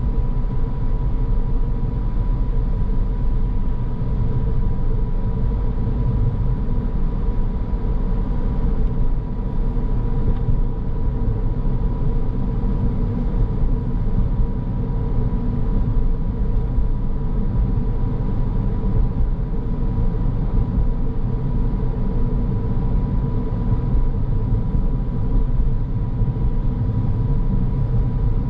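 Car driving along at a steady pace: constant road and engine noise with a heavy low rumble and a faint steady high tone running through it.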